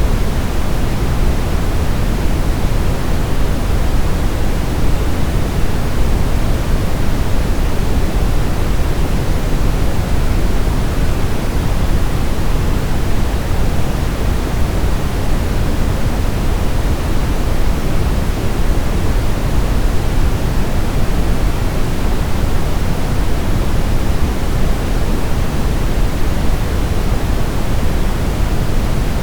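Brown noise: a steady, deep rumbling hiss, strongest in the bass and thinning toward the top, with no change or rhythm.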